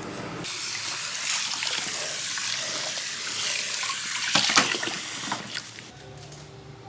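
Water running from a tap, as at a salon sink or basin, a steady splashing rush that starts about half a second in and stops about a second before the end, with a few louder splashes shortly before it stops.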